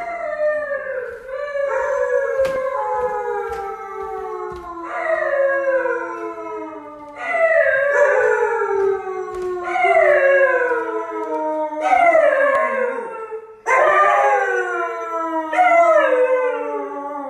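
Dog howling: a series of long howls, each starting high and sliding down in pitch, one after another about every two seconds.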